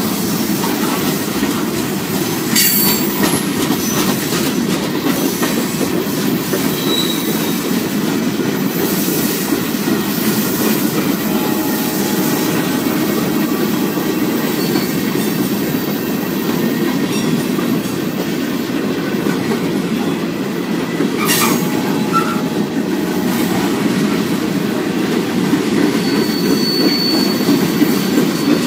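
CSX freight train's hopper and tank cars rolling past, their wheels making a steady rumble on the rails. Short high wheel squeals come and go, and there are two sharp knocks, a few seconds in and about two-thirds of the way through.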